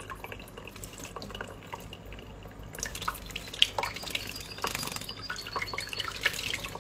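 Water splashing and dripping as a small bird bathes in cupped hands, flicking droplets about. The splashing grows busier about three seconds in.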